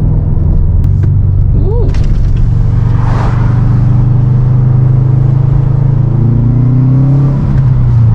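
Subaru WRX STI's turbocharged 2.5-litre flat-four engine heard from inside the car while driving, a steady low drone. Near the end it climbs in pitch, then drops back with a brief dip in level.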